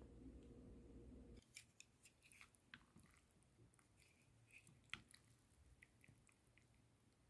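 Near silence: a faint steady hum that stops about a second and a half in, then scattered faint clicks and ticks.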